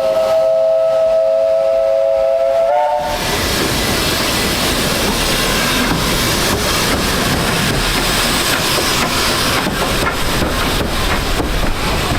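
Narrow-gauge steam locomotive whistle sounding one long blast of several tones together, ending about three seconds in. After it, the train is heard running: a steady loud rumble with wheel clatter over the rail joints.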